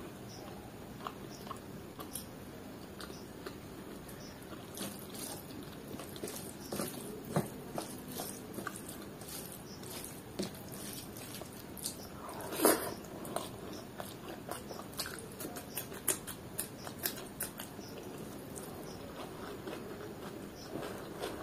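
Close-miked chewing and mouth sounds of someone eating rice and chicken liver curry by hand, with fingers mixing the rice on the plate. There are many small wet clicks throughout, the loudest a little past halfway.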